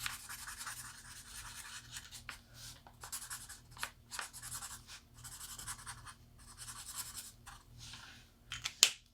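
Alcohol marker tip rubbing and scratching on paper in soft, uneven strokes while the hair is shaded, with a few sharper ticks among them.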